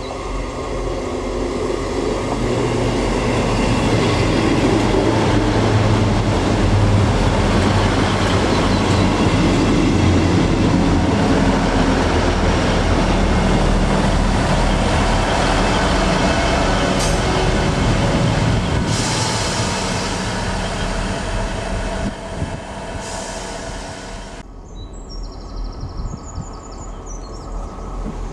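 A train passing through a station with a loud, steady rumble of engine and wheels on rail. It builds over the first few seconds, holds, then eases off. About 24 seconds in it gives way abruptly to a quieter sound with thin, high squeals.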